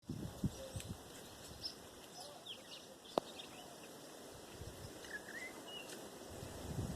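Birds chirping and calling now and then over a faint steady hiss, with a single sharp click about three seconds in.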